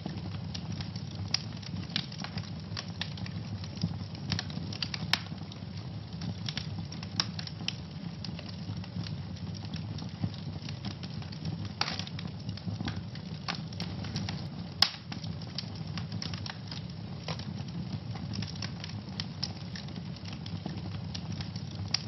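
Wood fire burning in a fireplace: a steady low rumble of flames with frequent sharp crackles and pops, two louder pops about 12 and 15 seconds in.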